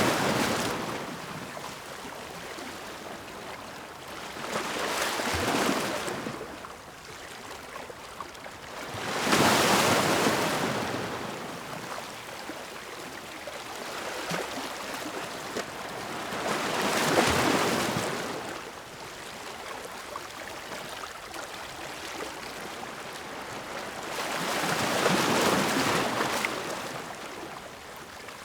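Ocean waves breaking on the shore, each wave a swelling rush of surf that fades back into a soft wash, about one every four to eight seconds.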